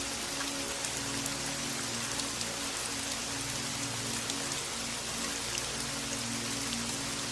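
Steady rain falling, an even hiss with scattered fine drop ticks, over soft held music notes.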